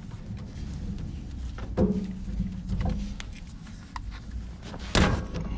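Electrical tape being unwound and wrapped around wiring inside a heat pump: scattered short crackles and clicks of tape and handling, with one sharper, louder clack near the end, over a steady low hum.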